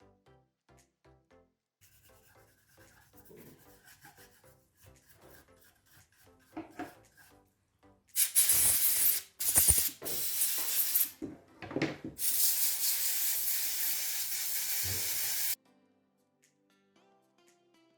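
Four bursts of loud, steady hissing noise, the last about three seconds long and stopping abruptly, over faint background music.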